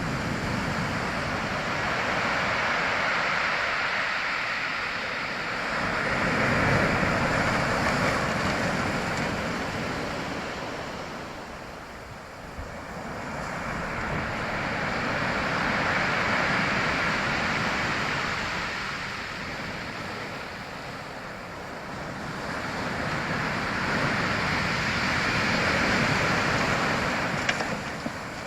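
Surf: waves washing in and drawing back as a steady rush of noise that swells and fades three times, about ten seconds apart.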